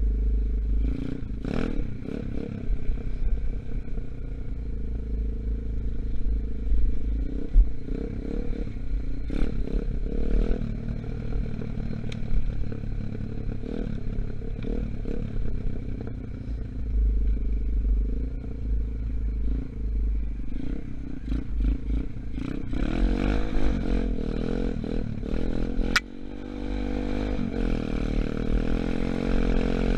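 125cc Gunshot dirt bike engine running under way, its pitch rising and falling with the throttle, with wind buffeting the microphone and clattering from the bike. About 26 seconds in there is a sharp click and a brief drop before the engine picks up again. The engine is still being run in.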